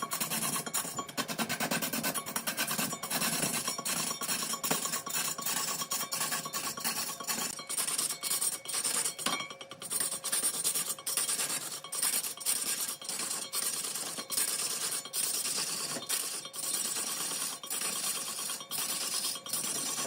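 A turning tool cutting mahogany as it spins on a large wood lathe: a steady rasping scrape, broken by frequent brief dips.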